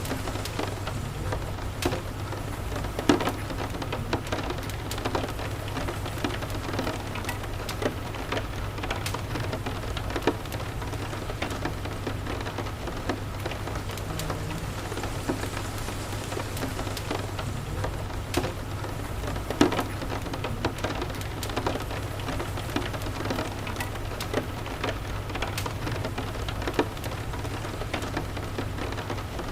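Steady rain with a wood fire crackling: scattered sharp pops, two of them louder, about three seconds in and about two-thirds of the way through, over a steady low rumble.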